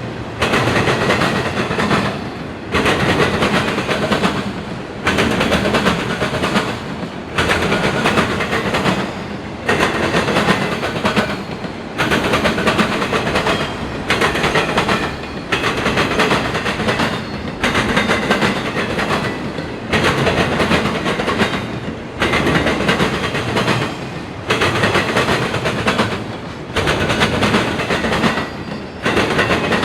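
Train cars rolling past, their wheels clattering on the rails, the noise swelling and dipping in a steady rhythm about every two seconds as car after car goes by.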